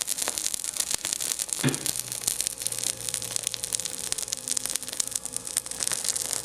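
Paraffin-soaked tea bag burning: rapid, irregular crackling and sizzling over a steady hiss, with a faint hum underneath.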